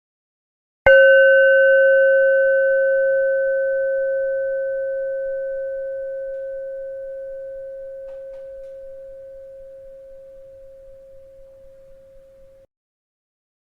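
A bell struck once about a second in, ringing with one clear steady tone and a few higher overtones that fade slowly for about twelve seconds before cutting off abruptly into silence.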